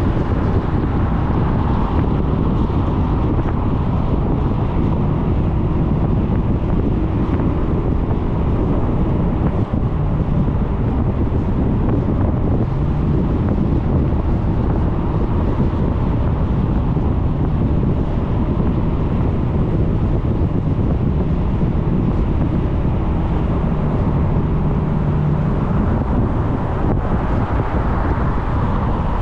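Wind buffeting a helmet- or bike-mounted camera microphone over the running engine of a Suzuki Burgman 400 scooter while riding, a steady rush with the engine note rising slightly near the end.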